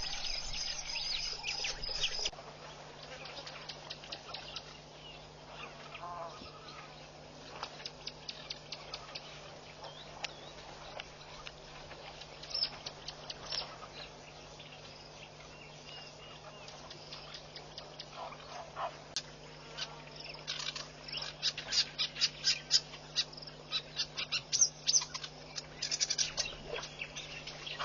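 Birds calling at a waterhole: scattered short, high chirps and ticks with a few lower calls, building to a quick run of chattering ticks in the last third, over a faint steady hum.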